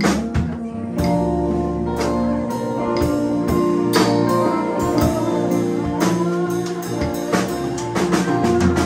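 Live band playing an instrumental passage, with sustained pitched notes and drum hits on the beat.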